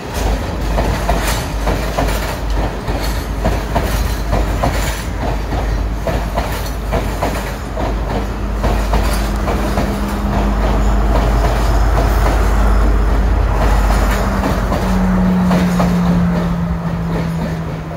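Class S12 diesel multiple unit running past close by: the coaches' wheels rumble and click over the rail joints. In the second half the green power car's diesel engine hum grows, loudest and dropping slightly in pitch near the end as the power car goes by.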